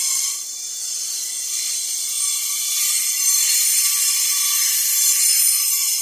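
Loaded iron-ore wagons rolling past: a steady metallic hiss and rattle of steel wheels on the rails, with high ringing tones.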